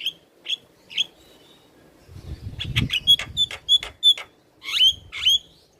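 Javan myna (jalak kebo) calling: a few sharp, harsh notes, then a quick run of about eight clipped notes around the middle, and two longer notes that bend in pitch near the end.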